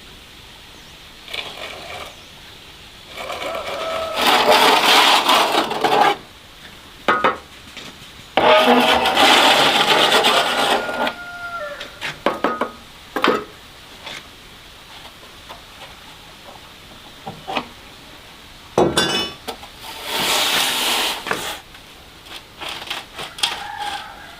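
Three long bouts of harsh scraping or rasping, a few seconds each, with scattered short knocks and taps between them.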